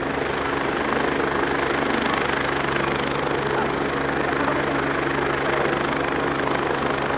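Agusta A109E twin-turbine helicopter running steadily, its engines and rotor making a constant roar with a steady tone underneath.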